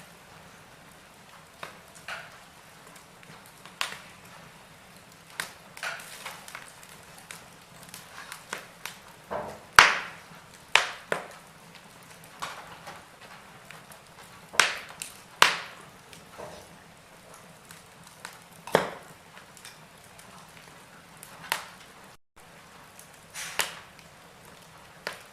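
Wood fire crackling in a fireplace: irregular sharp pops and snaps over a faint steady hiss, the loudest pops about ten and fifteen seconds in.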